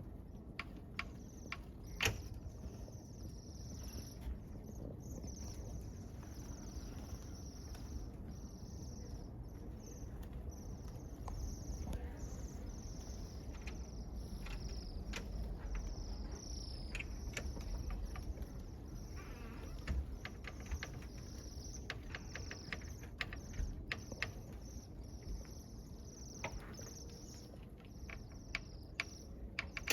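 A dense, steady chorus of high-pitched chirping calls, broken by scattered sharp clicks and step-like sounds.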